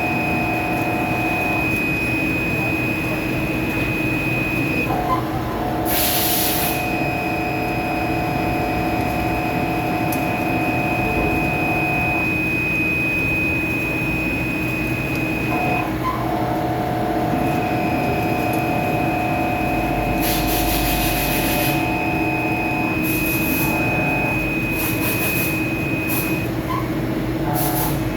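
CNC lathe running a machining cycle: steady machine noise with whining spindle and drive tones that cut out and resume a few times, and several short bursts of hiss.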